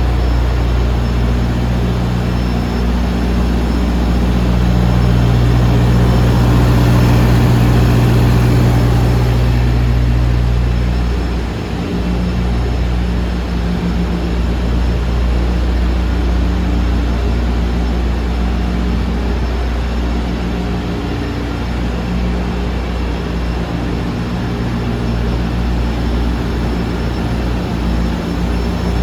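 A DAF CF250 lorry's 250 bhp turbo diesel engine idling steadily. It grows louder for a few seconds, from about four to ten seconds in, then settles back.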